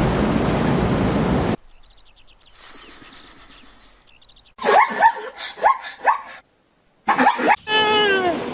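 Separate animal-call recordings joined end to end. A stretch of loud steady noise cuts off about a second and a half in. Then come short yelping calls in quick series, each falling steeply in pitch, typical of zebra barking.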